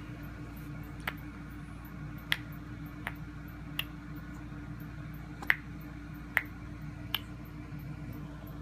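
A baby clicking her tongue: seven sharp, separate clicks at uneven intervals, over a steady low hum.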